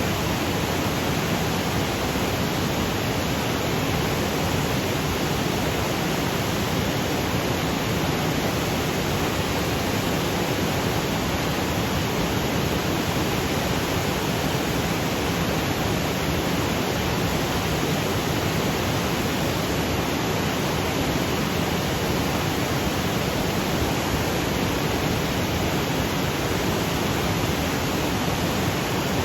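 Waterfall cascading over granite boulders: a steady, even rush of falling water.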